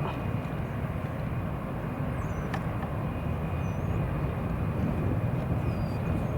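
Jet airliner engines at a distance: a steady rumble with no clear rise or fall.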